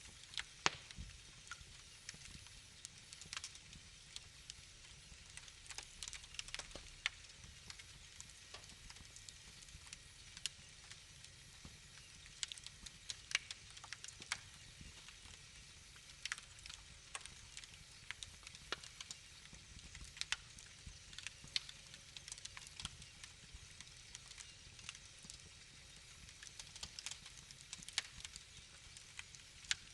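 Wood fire crackling in a fireplace: irregular sharp pops and snaps, several a second in places, over a faint low rumble of the flames.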